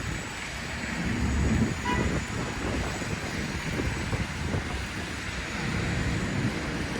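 City street traffic: vehicles running and passing in a steady low rumble, with a short high tone about two seconds in.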